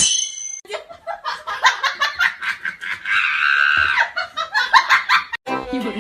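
Laughter in quick, choppy bursts, rising to a high-pitched held stretch in the middle, with music starting again near the end.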